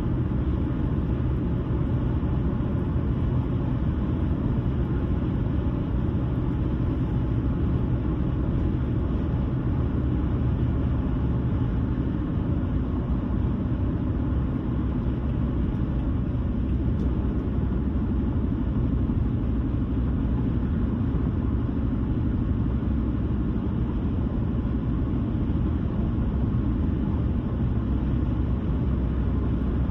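Car driving at a steady speed: a constant low rumble of tyres on the road and the engine, with no change through the stretch.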